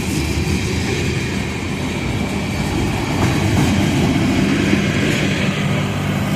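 Cars of a CSX welded rail train rolling past close by: steady wheel-on-rail noise.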